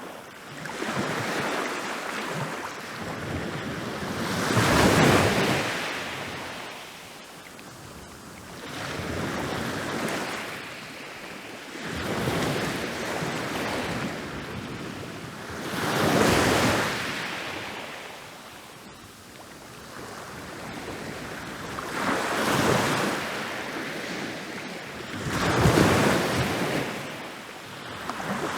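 Ocean waves rolling in and breaking on a beach: surf swelling up and washing away every few seconds, with the biggest crashes about five, sixteen and twenty-six seconds in.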